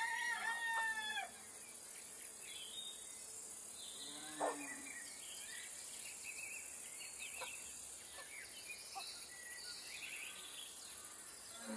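Farmyard ambience: a loud bird call of several arching notes in the first second, scattered small bird chirps, and a short sharp call about four seconds in, over a steady high hiss.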